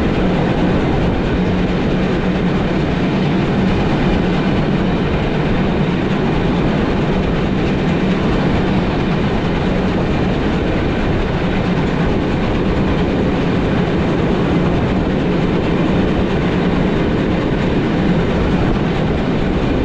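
Historic train of Umbauwagen passenger coaches running along the track, a steady, even rolling noise with no break or change.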